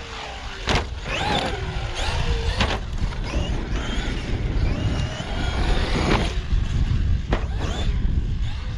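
Traxxas XRT 1/6-scale RC truck driving on a dirt track: its electric motor whining up and down with the throttle, with several sharp knocks and wind rumble on the microphone.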